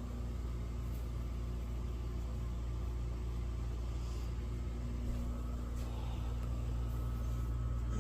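Steady low hum of a running machine, even throughout, with a faint steady tone above it.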